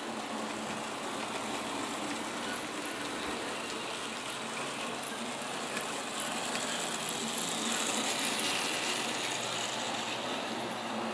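Bemo model train running on the layout, a steady whirr of its small motor, gears and wheels on the track. It gets a little louder a few seconds past the middle, then eases off.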